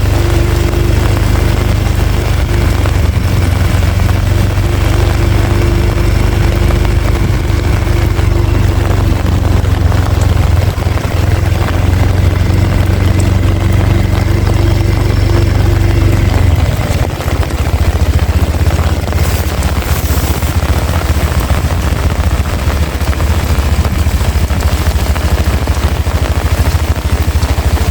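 Heavy rain falling hard, with a loud, steady low rumble underneath that shifts about two-thirds of the way through.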